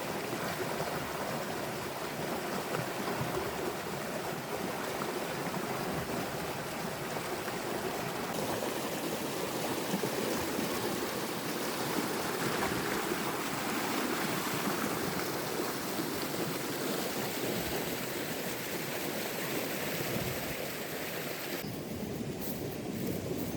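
Heavy rain falling steadily, a dense even rush with no letup; the sound changes character about two seconds before the end.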